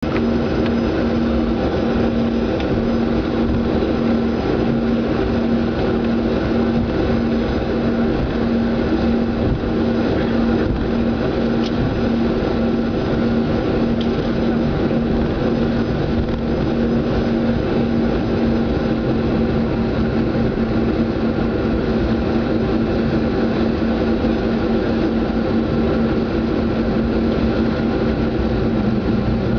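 Canadair CRJ-200 regional jet cabin noise: the rear-mounted General Electric CF34 turbofans running at steady low power, a constant drone with a steady hum and a slowly pulsing tone, and no spool-up.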